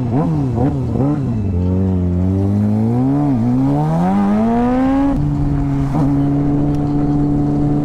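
Motorcycle engine revving in quick rises and falls, then climbing steadily in pitch for about three seconds as it accelerates, then settling to a steady, even note about five seconds in.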